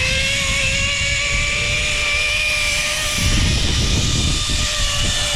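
Zipline trolley pulleys running along the steel cable with one steady whine, over wind buffeting the microphone, which grows stronger about three seconds in.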